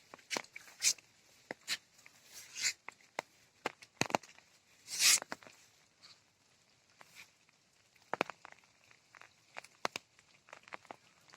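Irregular footsteps with light scuffs and clicks, thinning out in the second half, and one louder rustling swish about five seconds in.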